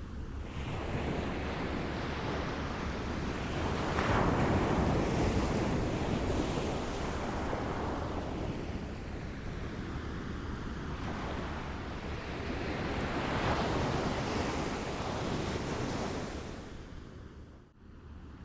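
Small waves lapping at the water's edge, a steady wash of water that swells twice, about four seconds in and again past the middle, and drops away briefly near the end.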